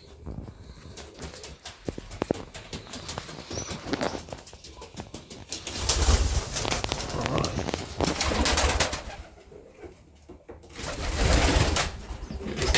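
Pigeons cooing in a loft, with wing flapping and scuffling. There are scattered clicks early on and two louder rushing stretches, one about halfway through and one near the end.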